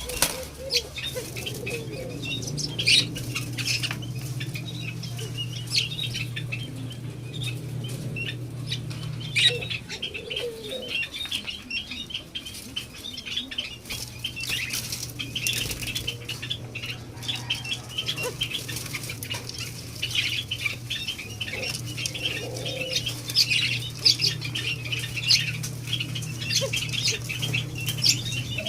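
White-eared brown doves flapping their wings and moving about at close range, a busy run of quick light ticks and flutters. A steady low hum runs underneath and drops out for a few seconds near the middle.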